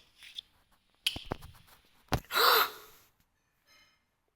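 A few sharp clicks about a second in, another just after two seconds, then a short breathy gasp.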